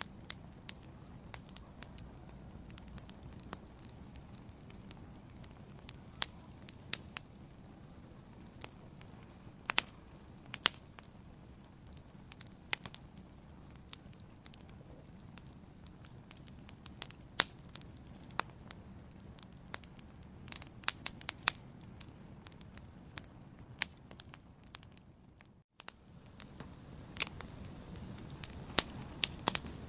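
Wood fire burning in a fireplace: irregular sharp crackles and pops, some of them loud, over a low steady rumble of the flames. About 26 seconds in, the sound cuts out for a split second and resumes with a slightly fuller rumble.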